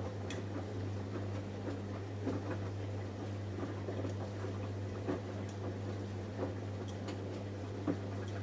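Samsung Eco Bubble washing machine running a cotton wash: a steady low hum with soft, irregular clicks and knocks from the load tumbling in the drum.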